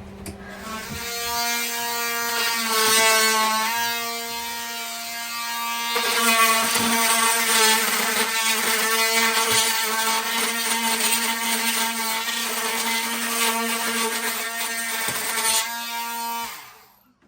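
Electric power sander running on wood inside the boat, a steady motor whine with a hiss that shifts pitch a few times as the load changes, then winds down near the end.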